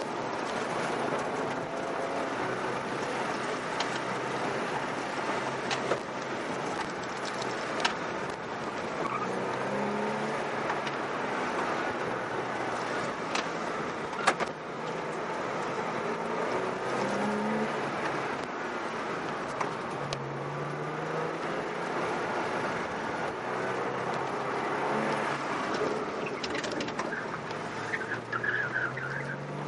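Porsche engine and tyre noise heard inside the cabin while the car is driven hard through an autocross course. The engine pitch climbs and drops again and again as the car accelerates and brakes between cones, over a constant road and tyre rush. There is a sharp knock about fourteen seconds in.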